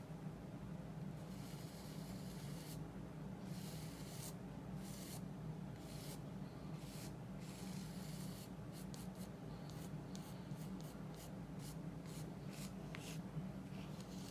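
Paintbrush strokes scratching oil paint across mixed-media paper: a few slow strokes about a second long, then a run of quicker short strokes later on, over a steady low hum.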